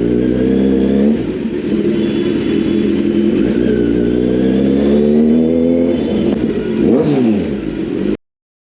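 Kawasaki Z900's inline-four engine revving and accelerating. Its pitch rises and drops several times with throttle and gear changes, and the sound cuts off abruptly near the end.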